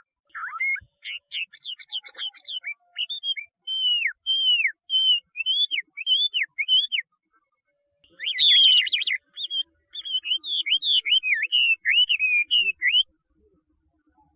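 Chinese hwamei (laughingthrush) singing: two long phrases of loud, rapid, repeated whistled notes, many of them slurring down in pitch, with a short pause between the phrases.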